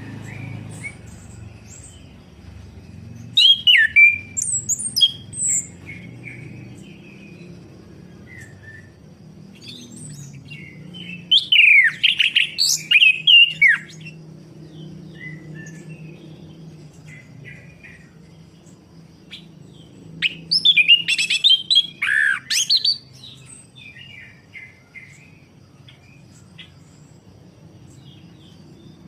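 Orange-headed thrush singing, with three loud bursts of rapid, varied song phrases about 3, 11 and 20 seconds in and softer chirps between them, over a faint low hum.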